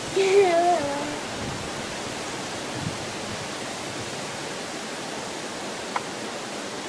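Steady rushing noise of water. A short gliding voice-like call comes in the first second, and a faint click near the end.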